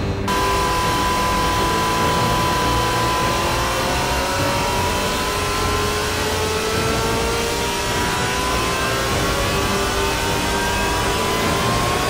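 Martin Jetpack's engine and ducted fans running hard and loud, its pitch dipping about four seconds in and then climbing slowly.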